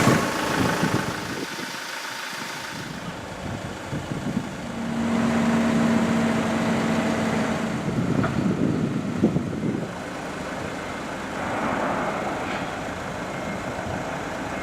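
Iveco Daily 4x4 truck's diesel engine idling, with a steady hum joining for a few seconds near the middle and a single knock about nine seconds in.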